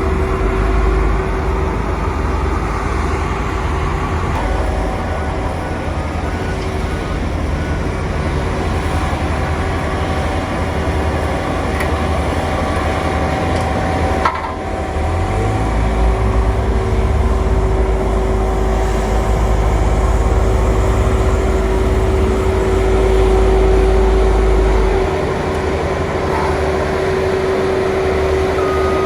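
Heavy road-construction machinery running: a steady low diesel engine rumble with a constant hum over it. The rumble grows heavier about halfway through and eases again near the end.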